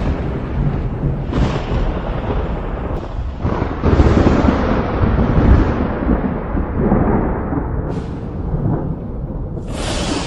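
Thunder rumbling continuously, swelling into a heavier, louder roll about four seconds in. A sharp, crackling thunderclap breaks in near the end.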